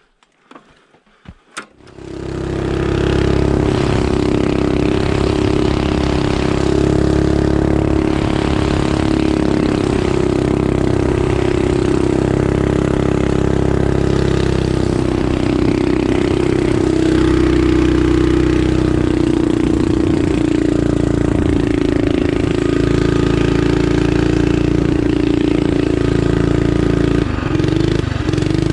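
A small engine starts about two seconds in, after a few clicks, and runs loudly at a steady speed, with a brief dip near the end.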